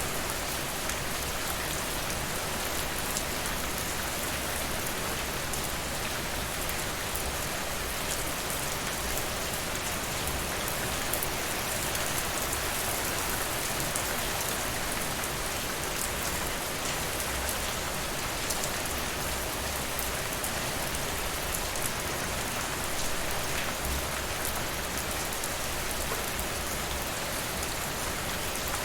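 Steady, even rain falling, with faint scattered crackles of a wood fire in a fireplace.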